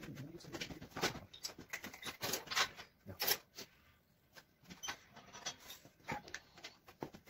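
Irregular clicks and knocks of steel hoops and clamps being handled and adjusted while fitting a hoop of an armillary sphere.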